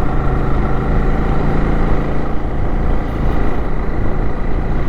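Honda motorcycle engine running steadily under way, heard from the bike with its low rumble and road noise.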